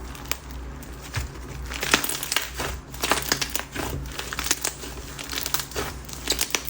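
Bingsu slime, a white glue base packed with small plastic bingsu beads and mixed with clay, being squeezed and pressed by hand: the beads crunch in rapid clicks and crackles, sparse at first and denser from about two seconds in.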